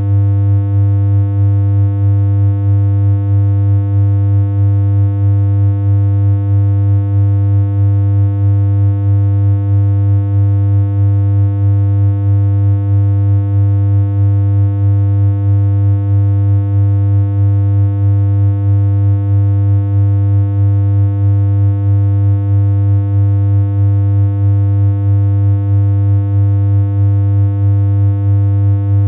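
Synthesized electronic hum: one steady low, buzzy tone that never changes pitch, with a slight regular pulsing in loudness.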